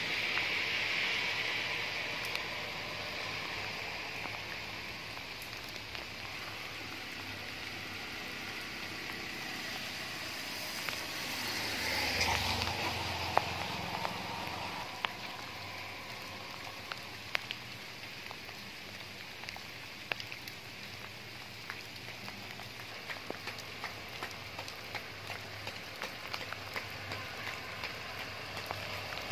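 Light rain outdoors: a steady hiss with scattered sharp ticks, and a louder rushing swell about twelve seconds in.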